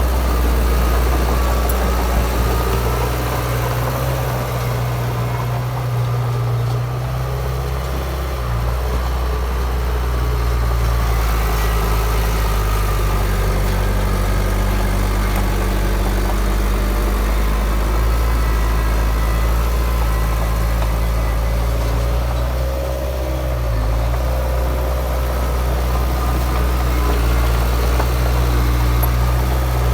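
Heavy diesel earthmoving machinery engine running steadily. Its low tone shifts a few times.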